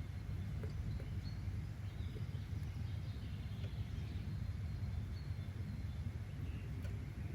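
Outdoor nature ambience: a steady low rumble with faint, scattered bird chirps over it.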